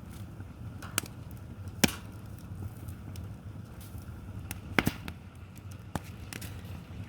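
Wood fire burning with a steady low rumble, broken by half a dozen sharp pops and snaps from the burning logs, the loudest about two seconds in.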